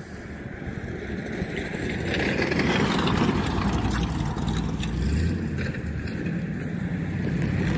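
Vehicle rumble outdoors, swelling over the first few seconds and then holding steady, with a low hum coming in about five seconds in.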